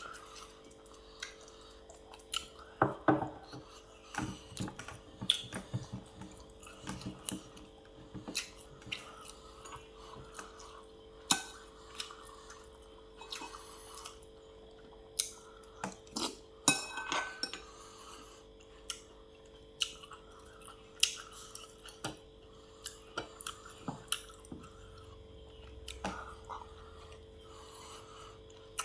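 Cutlery clinking and scraping against plates and dishes while eating, in short irregular clicks, over a faint steady hum.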